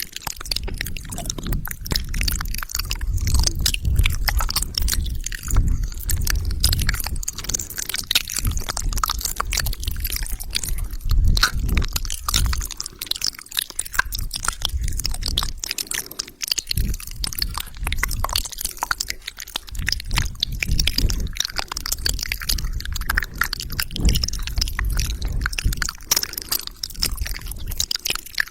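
Close-miked wet mouth sounds: rapid lip smacks, tongue clicks and saliva squelches, dense and continuous.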